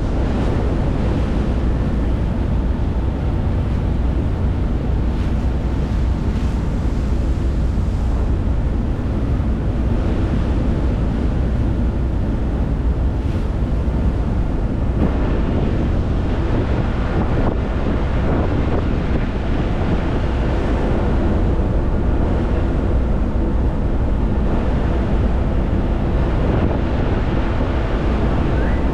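Steady wind buffeting the microphone over rushing water and the low, even drone of a ferry's engine running under way.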